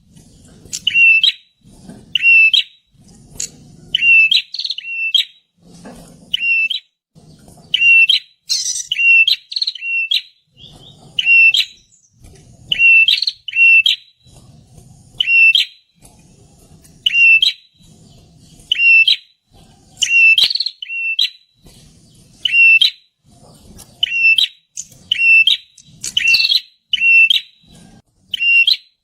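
Perenjak (prinia) calling loudly: short, sharp high chirps repeated over and over, singly and in pairs, about one or two a second.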